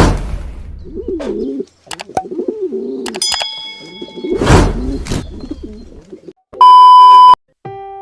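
Pigeons cooing in low, wavering calls, with two short rushing noises among them. Near the end a loud, steady electronic beep lasts under a second, followed by the first notes of a jingle.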